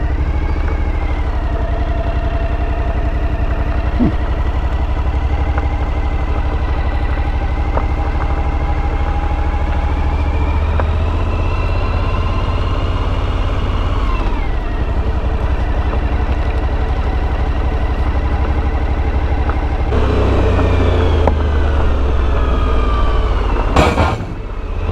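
Motorcycle engine running while riding, over a heavy low rumble. The engine note climbs slowly, drops about fourteen seconds in, then rises and falls again near the end.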